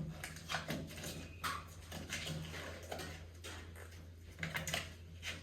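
Plasti Dip rubber coating being peeled off a truck's painted body panel: irregular short rubbery tearing rasps, a few each second, coming in uneven clusters.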